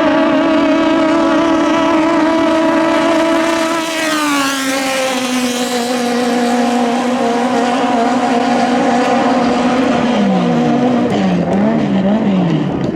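5K-class racing boat engines running at high revs. The pitch drops about four seconds in as a boat passes, then holds steady. Near the end the revs swing up and down quickly, several times.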